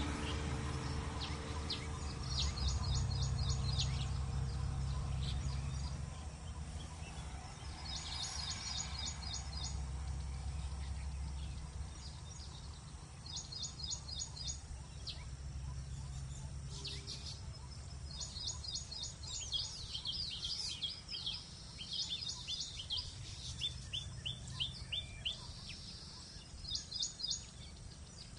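Small birds calling in short, fast runs of high-pitched chirps every few seconds. A low background rumble underneath fades after about twelve seconds.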